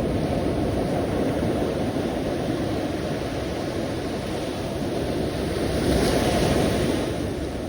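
Ocean surf: a steady wash of waves, with one wave breaking louder and brighter about six seconds in, then easing off.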